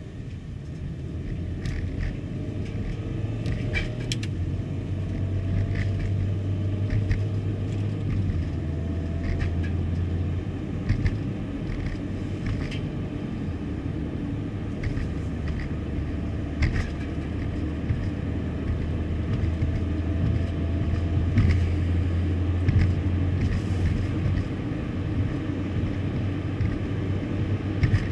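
A car driving: a steady low engine and road drone, with scattered light clicks and rattles.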